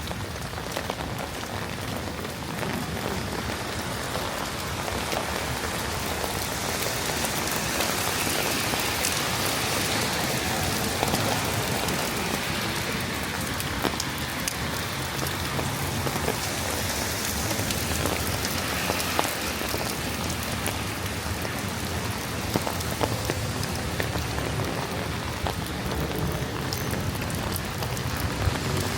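Steady rain falling and pattering on wet surfaces, with scattered sharper drop ticks.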